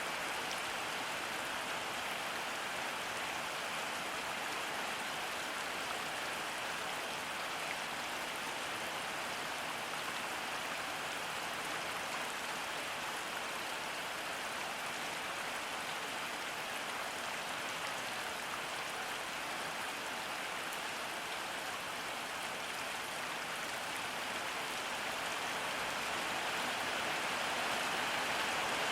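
Steady rainfall, an even hiss of rain on surfaces with no distinct drips, getting slightly louder near the end.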